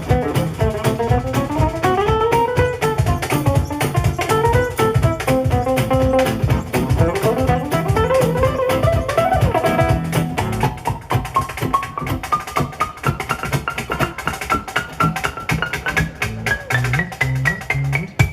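Live acoustic gypsy jazz band playing: a lead melody with sliding, bending notes over a pulsing double bass and strummed guitar. From about halfway the lead holds one long note that glides slowly upward in pitch.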